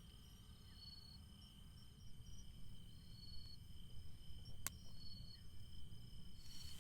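Crickets singing: a steady high trill with short, evenly repeated chirps above it. A single sharp click sounds about two-thirds of the way in.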